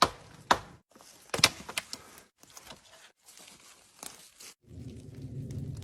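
Sticks and branches being knocked together and handled, with sharp wooden knocks and leafy rustling, then a low rumbling noise near the end.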